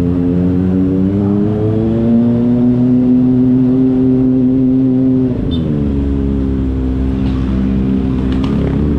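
Kawasaki ZX-25RR's 250 cc inline-four engine under way. It pulls at steady, fairly high revs, then the revs drop sharply about five seconds in as the throttle is closed, and it settles at lower revs.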